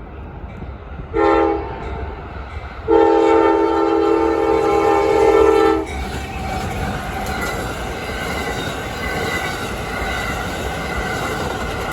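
Amtrak locomotive horn, a multi-note chord: a short blast about a second in, then a long blast of about three seconds. After it comes the steady rumble of a passing train.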